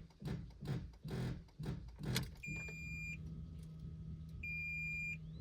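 A 2018 Fiat Argo failing to start as the key is turned: a run of rapid, irregular clicks without the engine cranking, then a steady low hum and two high dashboard warning beeps. The owner wonders whether the battery is the cause.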